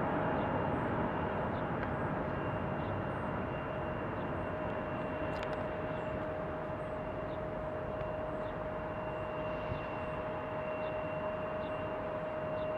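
Jet airliner's engines after take-off: a steady rush of noise with a steady high whine, slowly fading as the aircraft moves away.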